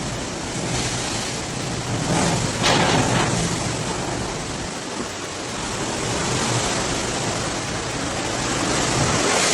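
Steady rushing storm noise, swelling briefly about two to three seconds in.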